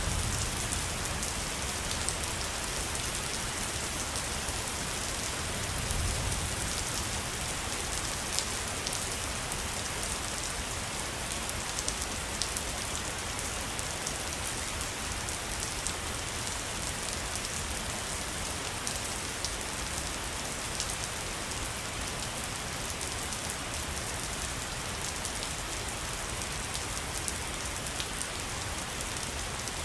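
Steady rushing of falling water from a waterfall, an even hiss with scattered small drip-like ticks, and a brief low rumble about six seconds in.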